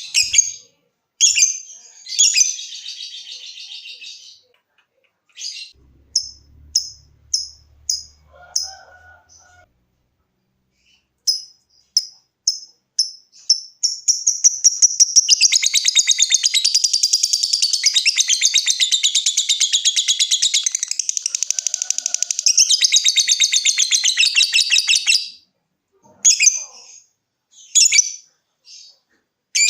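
Lovebird singing: short, sharp, ticking chirps in spaced runs (the 'ngetik' call), breaking about halfway in into one long, very rapid chattering trill of about eleven seconds (the 'ngekek'), then back to a few short chirps near the end.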